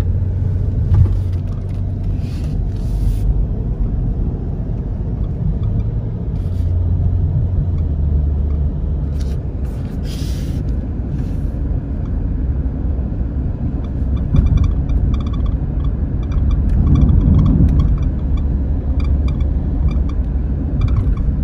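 Road rumble inside a moving 2014 Jeep Grand Cherokee's cabin over a rough surface, with short squeaks and creaks, repeated more often in the last third. The owner traces the squeak, which sounds like it comes from the driver's side of the dash, to the hood stop bumper set too high and pressing on the hood.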